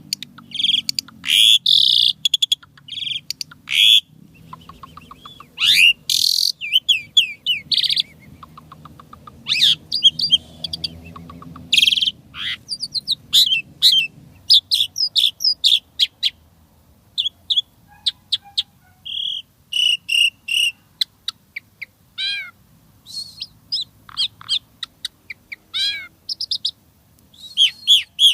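Asian pied starling (jalak suren) singing a rapid, varied song of short whistles, chatters and trills, with many quick downward-sweeping notes, packed with mimicked phrases.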